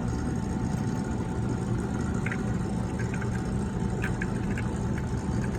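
HVAC unit running with a steady mechanical hum after its power disconnect is switched on, a few light clicks sounding about halfway through.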